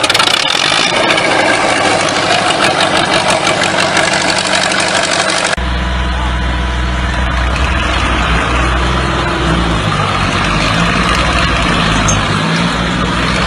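Heavy vehicle engine running, with a clatter of noise and clicks in the first few seconds; about five seconds in the sound cuts abruptly to a steady low engine rumble.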